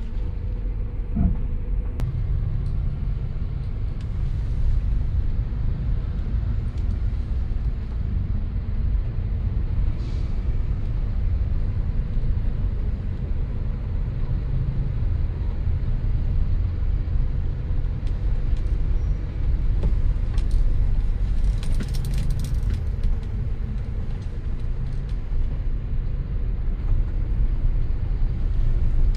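Steady low rumble of road traffic or a moving vehicle, with a few short clicks and a brief hiss of higher noise about two-thirds of the way through.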